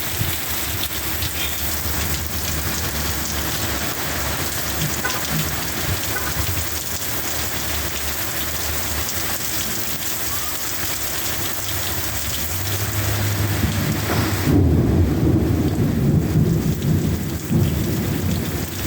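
Heavy rain pouring steadily in a severe windy thunderstorm. About two-thirds of the way in, a deep rumble swells up and is the loudest part, then eases near the end.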